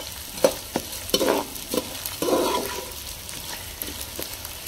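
Gond (edible tree gum) frying in hot desi ghee in a kadhai as it starts to puff, sizzling steadily. It is being stirred, with irregular knocks and scrapes against the pan, the longest scrape a little past two seconds in.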